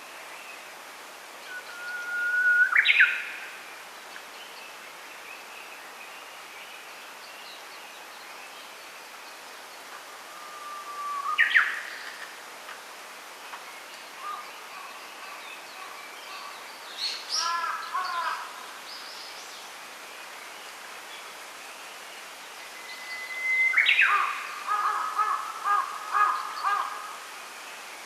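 Songbirds singing: three times, a long held whistle that breaks into a quick rising flourish, with scattered shorter chirps between and a run of short notes after the last song.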